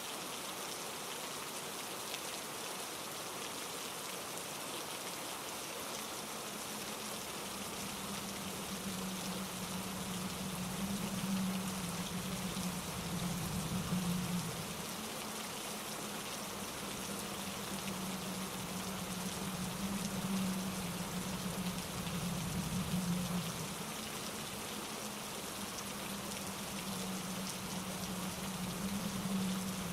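Steady rain falling on leaves and ground, an even hiss. From a few seconds in, a low rumble joins it and swells and eases several times, like gusts of wind through the trees.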